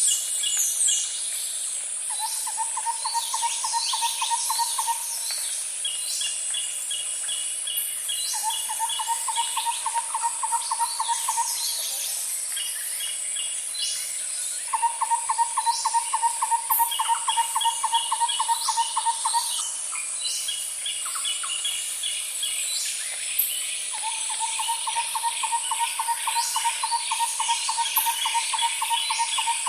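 Forest ambience: a continuous high-pitched insect drone, with a lower pulsed trilling call repeated in four bouts of several seconds each, and many short bird chirps and trills over it.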